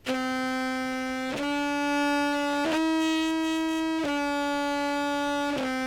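Contrabass clarinet played through a fuzz and compressor pedal chain: five sustained notes in a row, stepping up and then back down, at an even, steady level.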